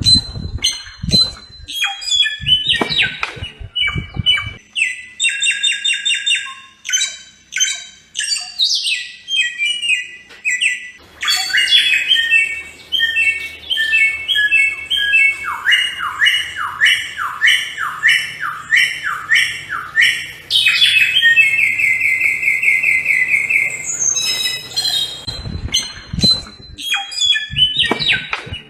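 Samyong singing: a continuous stream of varied, rapid phrases, with runs of repeated notes, quick downward-sweeping whistles and a fast even trill a little after the middle.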